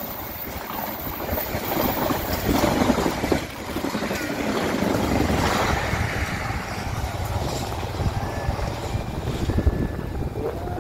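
Passenger train passing at speed close by: wheels running over the rails in a noisy roar, loudest about three seconds in, then a steady low rumble as it moves away.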